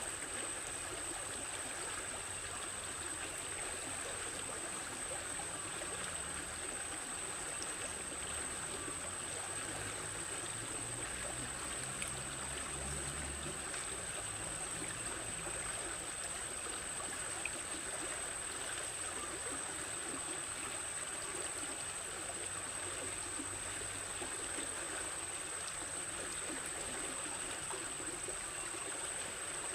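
Stream water running steadily, with a steady high-pitched tone above it.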